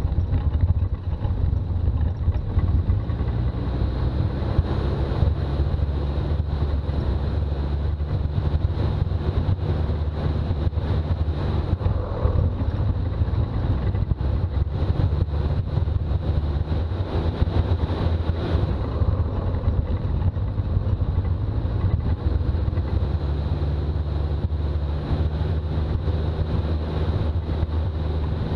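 Toyota BJ40 Land Cruiser's diesel engine running steadily while driving, with road noise.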